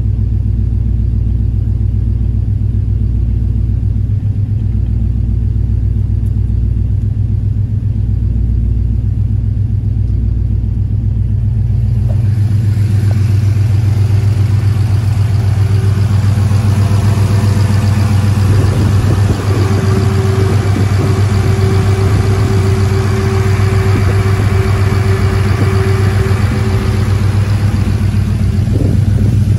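Swapped-in GM 5.3 LM7 V8 with FiTech fuel injection idling steadily at about 900 rpm. It is heard muffled from inside the cab for roughly the first twelve seconds. After that it turns brighter and fuller, heard from outside beside the truck.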